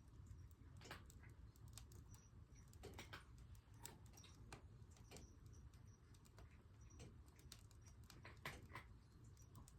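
Firewood burning in a wood stove, giving faint, irregular crackles and pops over a low steady rumble.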